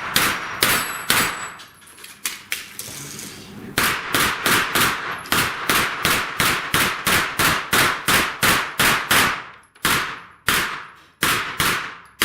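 Rapid gunfire on a steel plates course: a few shots, a pause of about two seconds, then a fast even string of roughly three shots a second for several seconds, ending with a few more spaced shots, with steel targets clanging as they are hit.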